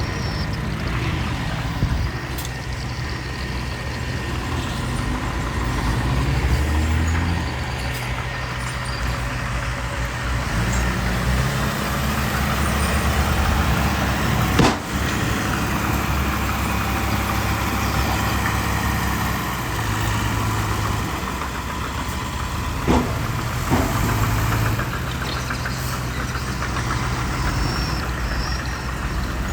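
Diesel engines of dump trucks and a small bulldozer running steadily, their pitch shifting now and then as the machines work. A few sharp knocks cut through, one about halfway and two close together about three-quarters of the way in.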